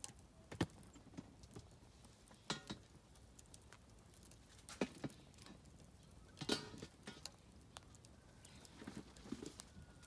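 Oak firewood burning in a campfire, crackling with irregular sharp pops, the loudest about six and a half seconds in.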